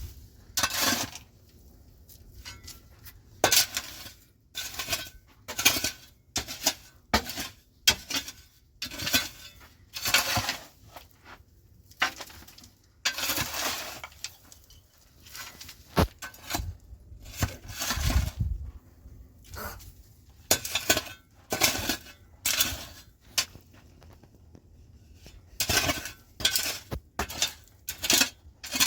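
Metal dishes, pots and utensils clinking and scraping against one another in about twenty irregular strokes, some ringing briefly.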